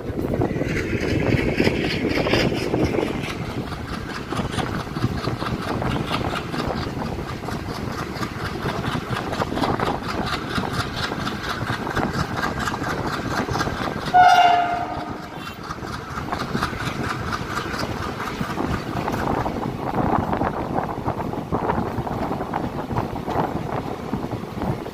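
Express passenger train running on the rails with a steady rumble and clickety-clack of wheels over rail joints. About fourteen seconds in, the locomotive's horn gives one short blast.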